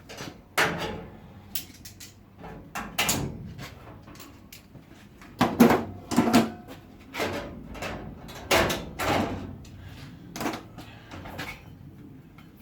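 About a dozen irregular knocks and clunks of sheet-metal parts and tools being handled and set down on a workbench.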